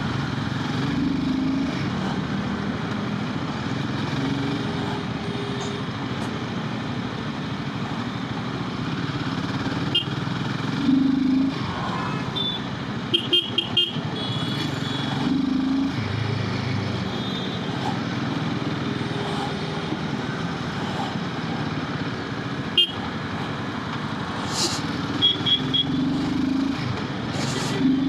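Royal Enfield Himalayan 450's single-cylinder engine running on the move, its note shifting with throttle, under road noise. Short horn toots from traffic come in quick clusters about halfway through and again near the end.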